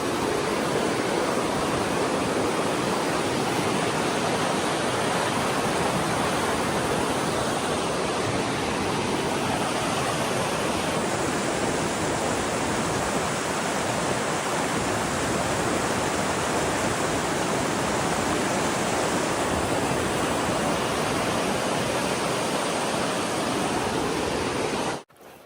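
Steady rush of flowing water, a river or stream running hard, which cuts off suddenly near the end.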